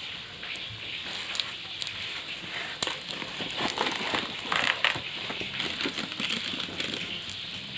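Plastic packaging crinkling and rustling as it is handled, with irregular crackles that are busiest and loudest about three to five seconds in.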